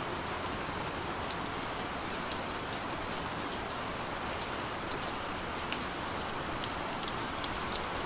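Gentle steady rain: an even hiss of rainfall with scattered individual drops ticking sharply.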